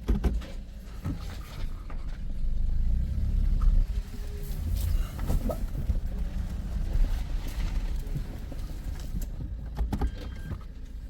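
Toyota car with an MMT semi-automatic gearbox running at low speed, a steady low engine and drivetrain rumble with a few short knocks or clicks. The car takes up drive in reverse with a slight jerk, which the mechanic puts down to either the clutch or the clutch actuator.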